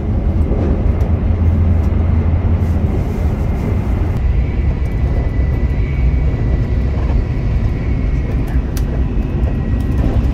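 Cabin noise inside a Shinkansen bullet train running at high speed: a steady, loud low rumble with a faint high steady tone over it for a few seconds.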